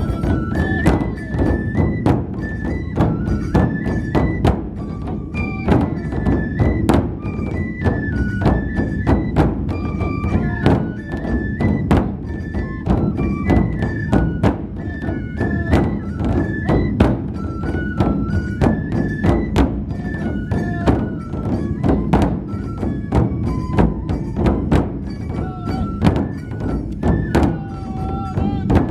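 Matsue dō-gyōretsu festival music: large drums beaten in a dense, steady rhythm, with a high flute melody moving in steps over them.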